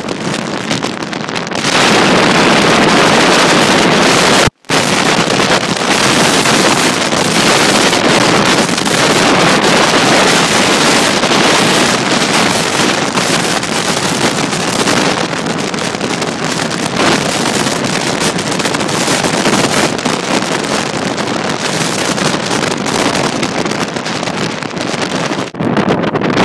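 Blizzard wind blasting an iPhone microphone: a loud, steady rush of wind noise that cuts out for a moment about four and a half seconds in.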